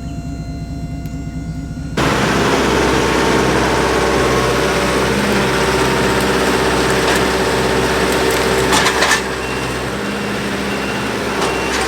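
A steady engine hum that, about two seconds in, gives way abruptly to a louder engine running steadily, with a few sharp cracks in the second half.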